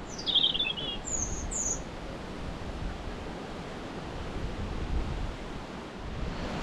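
A small songbird sings a quick phrase that drops in pitch, then gives two short high notes, all in the first two seconds. Gusty wind rumbles on the microphone throughout.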